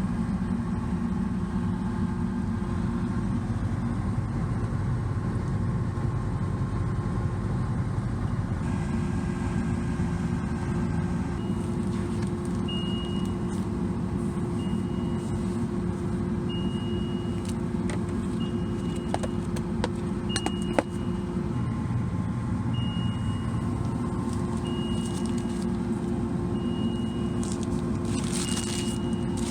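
FLX 4510 machine's engine running steadily. From about a third of the way in, a short high beep repeats every two seconds or so, like a warning or back-up alarm. A few sharp clicks come about two-thirds of the way through.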